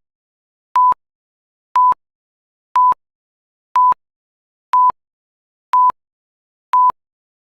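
Countdown timer beeping: a short, steady electronic beep once a second, seven times, with dead silence between.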